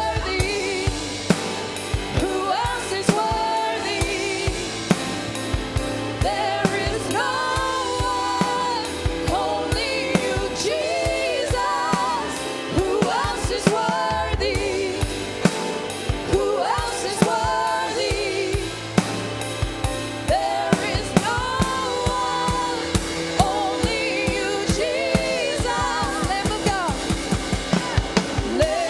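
Gospel worship music: a voice singing a melody over a drum kit keeping a steady beat.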